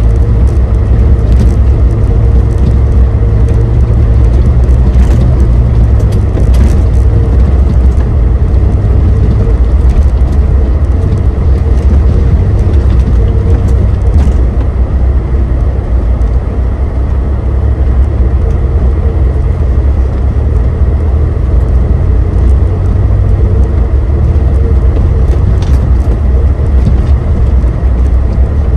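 Suzuki Jimny JB23's 660 cc turbocharged three-cylinder engine running steadily as the vehicle is driven off-road, a low, even rumble with a few light clicks or knocks along the way.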